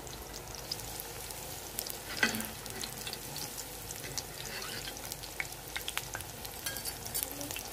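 Chicken chapli kababs sizzling and crackling as they shallow-fry in hot oil in a wide black pan. A metal spatula scrapes and taps against the pan now and then, most noticeably about two seconds in.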